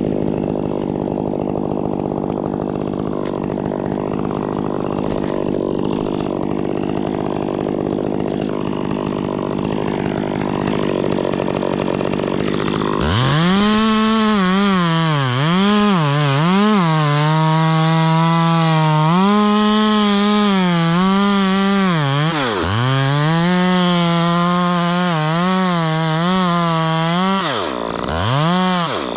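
Two-stroke chainsaw running steadily at first. About halfway it comes in close at full throttle, its pitch dipping and recovering again and again as the chain bogs in the wood, and twice it drops off sharply before revving back up.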